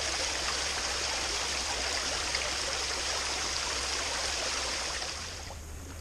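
Steady rush of running water that drops away fairly suddenly about five seconds in.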